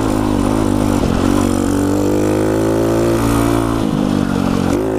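Pit bike engine running steadily under throttle while riding, its note dipping briefly a few times and then picking back up.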